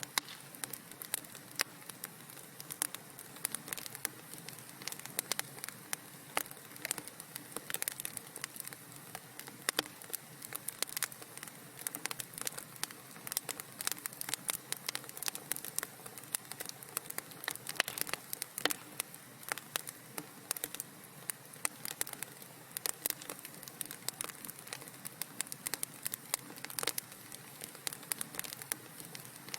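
Wood fire in a fireplace crackling steadily, with many irregular sharp pops and snaps over a soft hiss.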